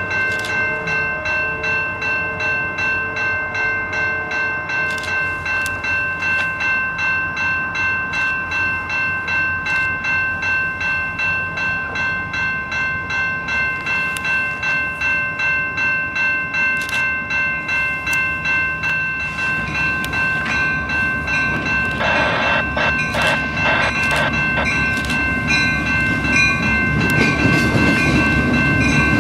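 Grade-crossing bell ringing steadily, about twice a second, as a Canadian Pacific freight train approaches; the locomotives' rumble and the clatter of wheels on rail build from about two-thirds of the way in and are loudest at the end.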